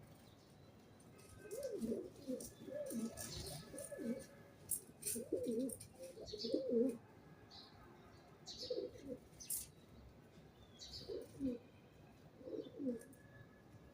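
Pigeons cooing in repeated low, warbling phrases, thickest in the first half and then coming in separate bouts. Brief sharp high chirps or clicks are mixed in.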